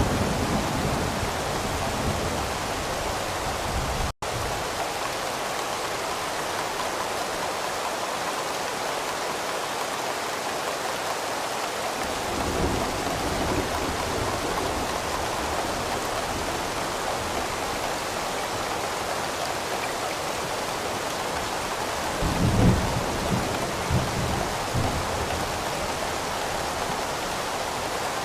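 Steady heavy rain with low rolls of thunder rumbling in several times, the loudest about three-quarters of the way through. The sound cuts out for an instant about four seconds in.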